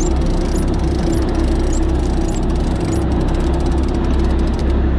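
Fishing boat's engine running at a steady low drone.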